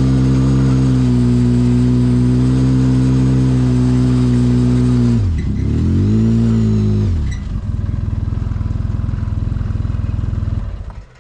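Polaris RZR side-by-side's engine running at a steady speed. About five seconds in the revs drop and rise again, then settle to a lower idle, and the engine shuts off near the end.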